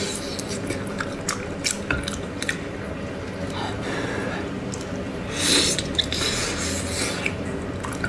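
Wet chewing and lip smacking on soft, gelatinous braised pork trotter, with sticky squelching clicks as the skin and meat are pulled apart by hand. There is a brief louder rush of noise about five and a half seconds in.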